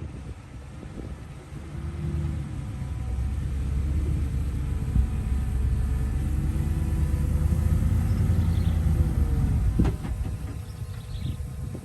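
Heavy diesel engine of an earthmoving machine working under load, its pitch rising and wavering, then dropping back with a knock about ten seconds in.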